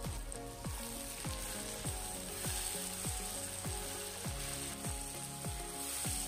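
Sliced onions and tomatoes sizzling as they fry in mustard oil in a kadai, stirred with a wooden spatula. Background music with a steady beat plays throughout.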